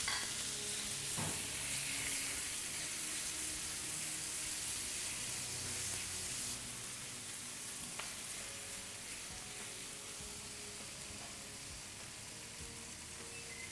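Marinated veal strips and sliced peppers sizzling in a frying pan as they are stirred with a silicone spatula. The sizzle eases a little about halfway through, with a couple of light taps along the way.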